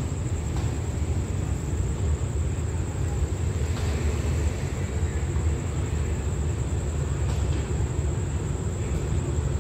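Low, steady rumble of an express train's diesel locomotive approaching from a distance, with a thin, steady high-pitched tone above it.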